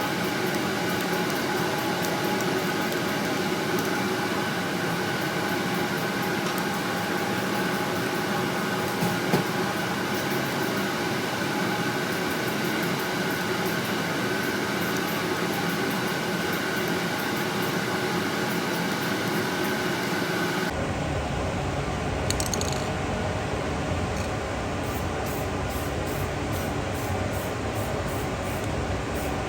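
A steady mechanical whirr with several held tones, like a motor or fan running. About two-thirds of the way through, the sound changes abruptly to a lower, deeper noise.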